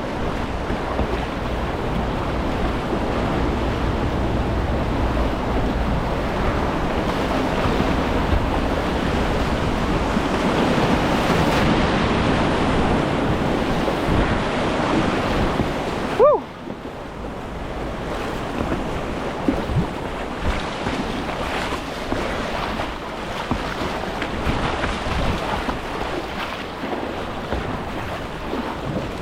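Steady rush of river whitewater, with wind on the microphone. About halfway through, a brief chirp is followed by an abrupt drop to a quieter, duller rush.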